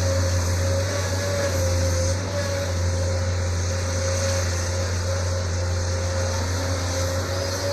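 The Isuzu 6BG1 six-cylinder diesel engine of a Sunward SWE210 excavator running steadily, with a deep hum and a steady whine over it.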